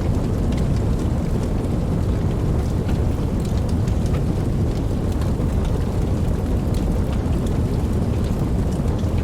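Steady rain, heaviest in the low end, with scattered sharp ticks of individual drops on top.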